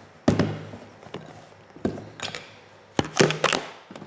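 Several sharp knocks and taps of objects being handled on a hard surface, the loudest about a quarter second in and a quick cluster at about three seconds.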